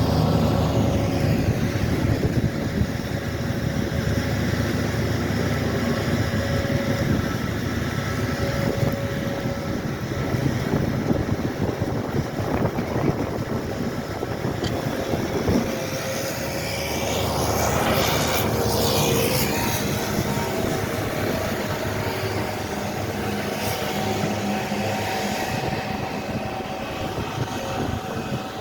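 Heavy engines of snow-moving vehicles running steadily, with one vehicle passing close about two-thirds of the way through.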